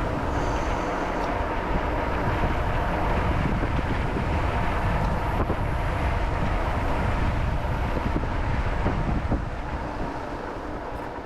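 Steady wind rush buffeting the camera's microphone while riding a bicycle along the trail, heaviest in the low end, with a faint steady hum underneath.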